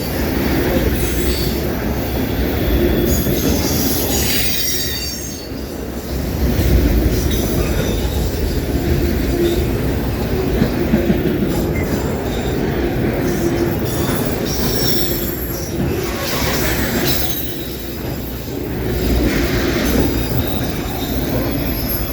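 Loaded freight autorack cars rolling past close by: a steady low rumble of steel wheels on rail, with high wheel squeal coming and going several times.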